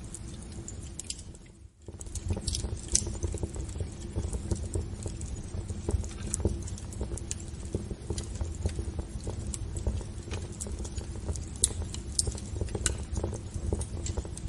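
Wood fire burning in a fireplace: a steady low rumble of flame with irregular crackles and sharp pops. The sound dips out briefly just under two seconds in, then resumes.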